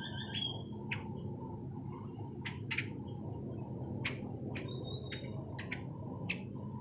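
Birds chirping: short, scattered chirps and one longer multi-toned call near the start, over a steady low background noise.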